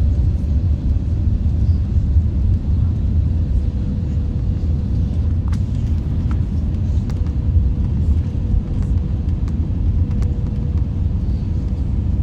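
Steady low rumble of cabin noise inside an Airbus A321, with a faint steady hum and a few light clicks.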